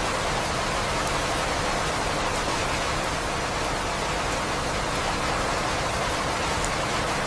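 Steady rain: an even, unchanging hiss of falling rain with a few faint drop ticks, and no thunder.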